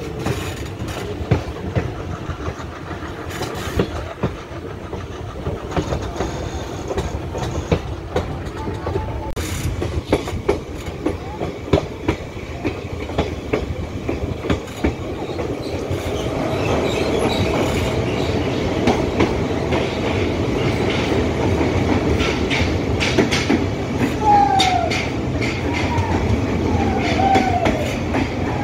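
Kanchanjunga Express broad-gauge passenger train running, heard from an open coach doorway: a steady rumble with the wheels clicking over the rail joints. About 16 seconds in it grows louder and more enclosed as the train enters a tunnel, and a few short falling squeals come near the end.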